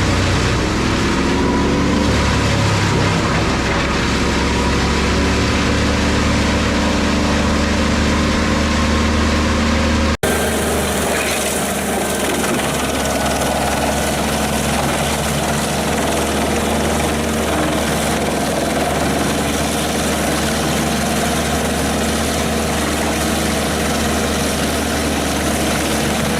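Heavy diesel engine of a large industrial wood chipper running at high revs, its pitch sagging for a moment in the first couple of seconds. About ten seconds in the sound cuts abruptly to another chipper's steady engine drone.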